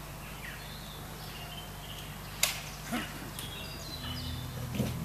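Small birds chirping in short high calls among the trees, with a few sharp clicks about two and a half, three and nearly five seconds in. A low steady hum comes in about four seconds in.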